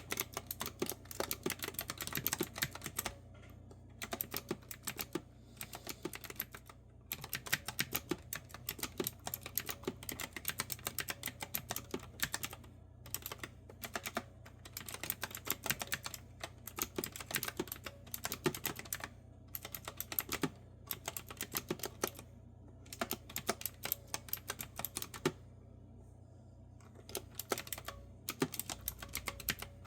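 Clicky retro-style keyboard with round keycaps being typed on: quick runs of crisp keystrokes broken by short pauses of a second or so.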